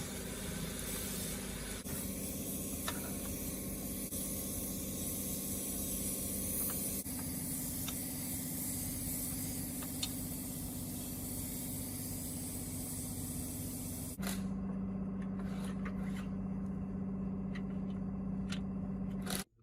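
Robin engine on a restored Meiwa plate compactor running steadily, a constant hum with hiss and rattle over it. The pitch shifts a few times and the sound cuts off abruptly near the end.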